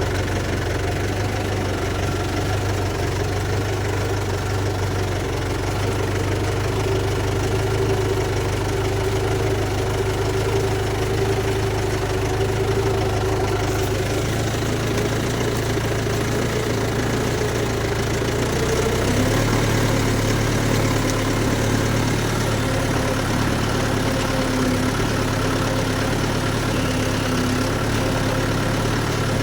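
Tractor's diesel engine running steadily, its note shifting slightly about two-thirds of the way through.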